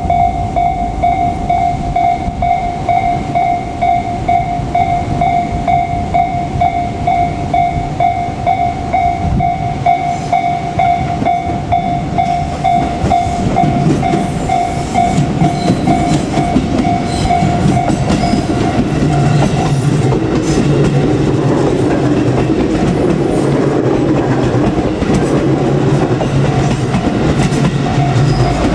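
Level crossing warning bell dinging in a rapid, steady repeat. From about halfway in, a JR Kyushu 787 series limited express approaches and passes, its wheels clacking over the rail joints and its running noise growing louder until it covers the bell.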